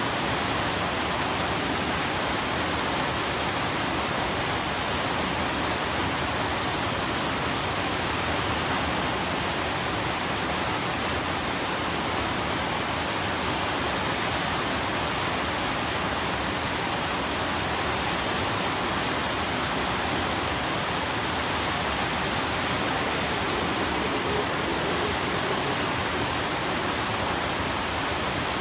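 Steady, dense rain hiss: an even wash of falling rain with no separate drops or thunder standing out.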